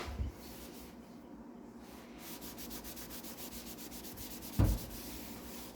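A countertop being scrubbed by hand, in quick, even back-and-forth strokes of about nine a second that start about two seconds in. A single thump sounds about four and a half seconds in.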